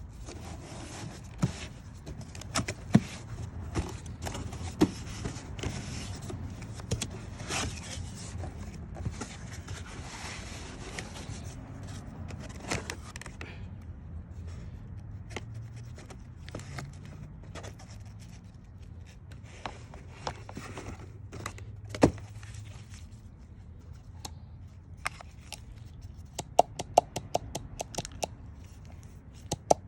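Hands working on parts and tools: scraping and rustling handling noise with scattered sharp clicks and knocks, and a quick run of clicks near the end.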